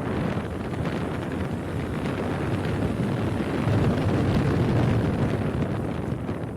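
Wind buffeting a phone's microphone while riding a motorcycle: a dense low rumble that swells around the middle and begins to fade near the end.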